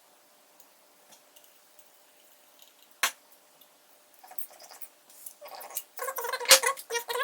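Parts being handled during hand assembly: a single sharp click about three seconds in, then irregular scraping and rattling that grows louder near the end, with one loud knock.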